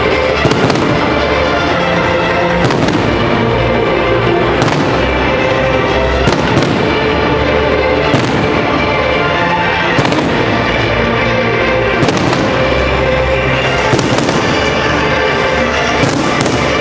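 Fireworks bursting in a salute, with sharp bangs about every two seconds over loud, continuous music.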